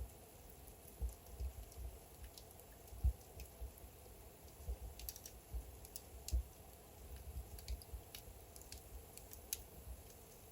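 Logs burning in a fireplace, crackling with irregular sharp pops and soft low thuds over a faint steady hiss.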